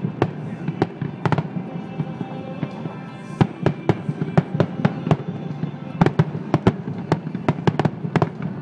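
Fireworks display: shells bursting in quick succession as repeated sharp bangs and crackles, thickest at the start and again about six seconds in.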